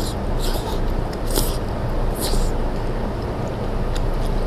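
A person slurping and eating noodle pieces: three short hissing slurps about a second apart over a steady low rumble.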